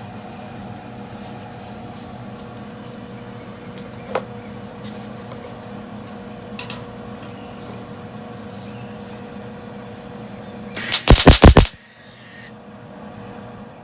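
A steady hum, then about eleven seconds in a loud crackling burst of under a second from a MIG tack weld on sheet-steel floor-pan patch, followed briefly by a hiss.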